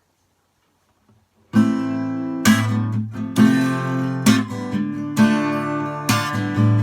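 Acoustic guitar strumming chords, starting about a second and a half in after silence, with a fresh strum accent roughly every second.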